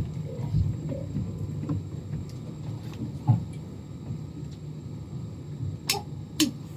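Quiet club room between songs, with a low steady hum and scattered small noises. Near the end come two sharp clicks about half a second apart: drumsticks counting in the next song.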